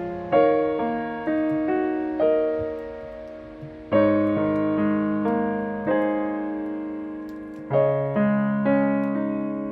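Slow solo piano music: chords and single notes struck every second or so and left to ring and fade.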